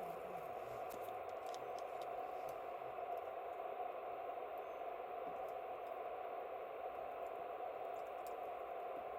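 Wood campfire crackling, with scattered sharp pops and ticks over a steady hiss.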